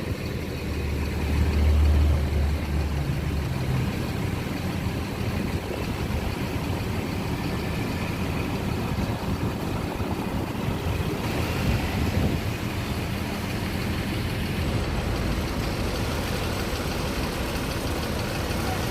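Diesel engine of a large intercity bus running steadily, with a louder deep rumble for the first few seconds.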